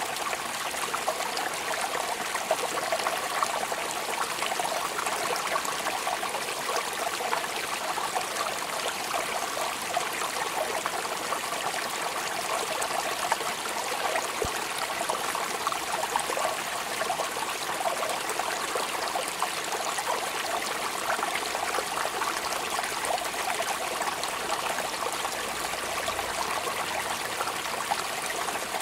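Rain falling steadily: an even hiss of many fine drops.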